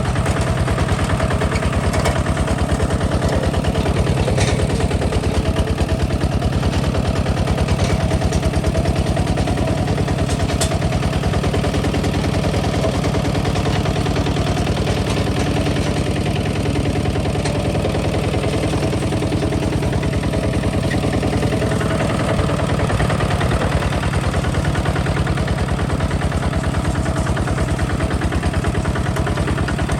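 Kubota ZT 155 DI single-cylinder diesel engine running steadily, a fast even chug of firing beats with a couple of faint clicks over it.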